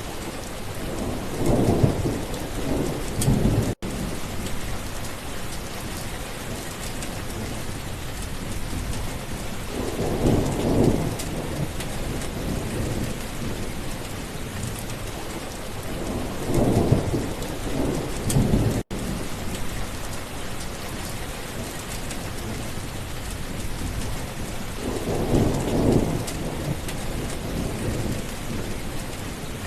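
Steady heavy rain with rolling thunder rumbling four times, roughly every seven or eight seconds. The rain briefly cuts out twice, near four seconds and near nineteen seconds in.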